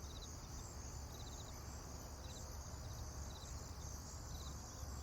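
Insects chirping: short chirps of a few quick pulses about once a second over a continuous high, pulsing trill, with a low rumble underneath.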